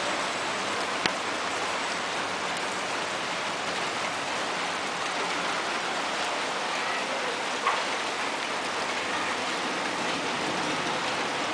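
Steady rain falling and hitting surfaces in a short spring downpour. Two short sharp ticks stand out, one about a second in and another about two-thirds of the way through.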